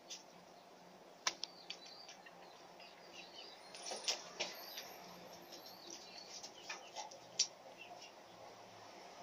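Faint small birds chirping in short calls, with a few sharp clicks in between.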